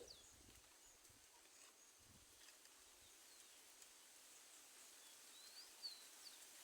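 Near silence: faint outdoor background with a few faint bird chirps, two short ones close together near the end.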